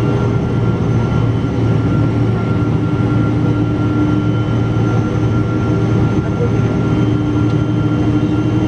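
Steady cabin noise inside a Boeing 777-200 airliner: a loud, even engine drone with a low hum and a few steady tones over it.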